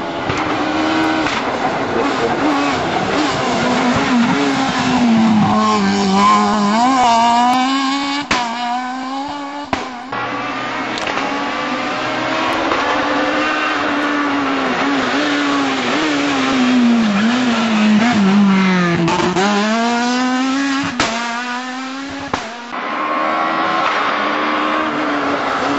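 Rally car engine braking hard into a hairpin and revving back out under acceleration, the pitch dropping and then climbing with quick throttle blips, twice.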